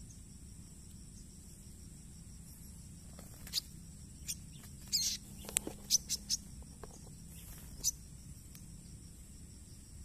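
A small bird, just caught on a birdlime-smeared stick and taken in the hand, gives a string of sharp, short, high calls between about three and eight seconds in. A steady high insect buzz runs underneath.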